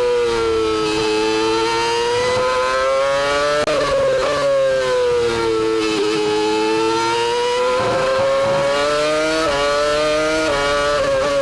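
Formula 1 V10 engine heard onboard, its revs sinking and climbing again in long sweeps, with quick gear changes breaking the note several times, about a third of the way in and more often near the end.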